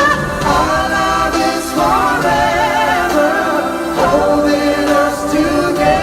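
Live music: voices singing, with lines that slide in pitch, over sustained instrumental accompaniment.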